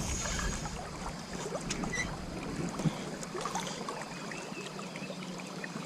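Creek water running, with small splashes and clicks.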